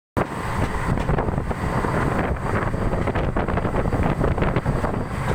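Wind buffeting the microphone aboard a boat in big waves, over a steady low rumble and rushing noise.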